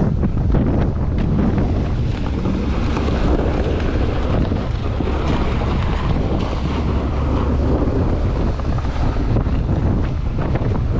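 Strong gusting blizzard wind buffeting the microphone: a loud, steady low rumble with rushing noise that swells and eases.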